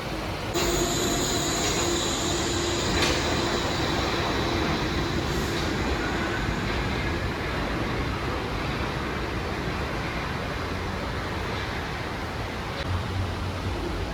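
Wuppertal Schwebebahn suspension railway car running on its steel rail with a steady rushing noise. About half a second in it gets suddenly louder, and a whine made of several steady tones, one low and some high, sets in and fades away over the next several seconds.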